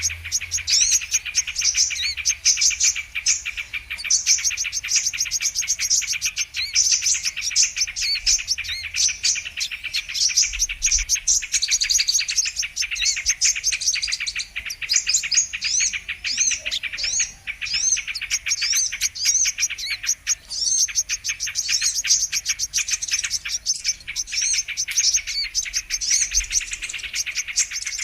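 Brown-throated sunbird (kolibri kelapa) calls: a dense, unbroken stream of rapid high chirps and short sweeping notes, layered as a looped bird-trapping lure recording.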